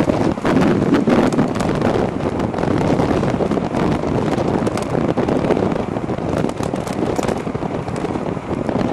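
Wind buffeting the microphone of a moving e-bike: a steady rushing with frequent crackles.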